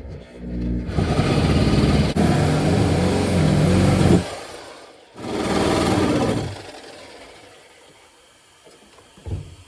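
A small motor spinning up and running steadily for about three seconds, stopping, then running again for about a second and a half.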